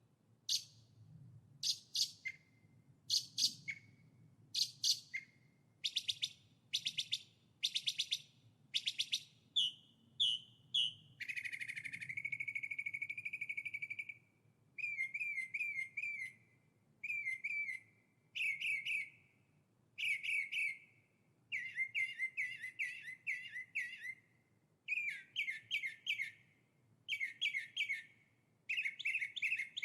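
A songbird singing in repeated short phrases of sharp, quick notes, with one long steady note held for about three seconds near the middle, then runs of quick falling notes.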